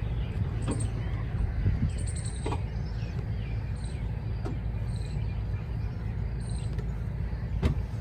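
Small birds chirping in short, high, repeated notes over a steady low rumble, with a few sharp clicks, the loudest near the end.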